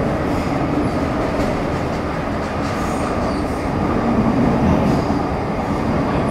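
Running noise of an MTR Metro Cammell M-Train electric multiple unit with GTO chopper traction, heard from inside the car: a steady rumble of wheels on rail and motors while under way, with a few faint high tones.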